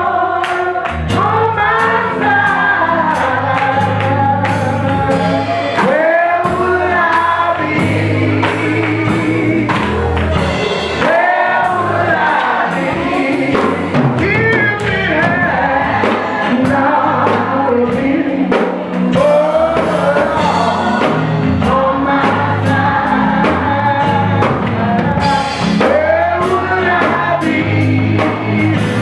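Gospel singing with band accompaniment: voices over a steady bass line and drums with cymbals.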